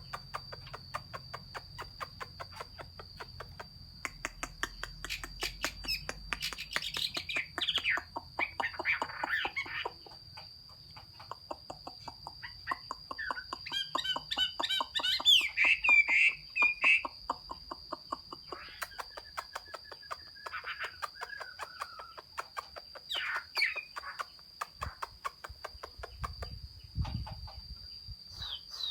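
Chinese hwamei (hoa mi) singing in scattered bursts of varied whistled phrases that sweep up and down, the loudest run about halfway through. A steady high whine and rapid ticking run underneath.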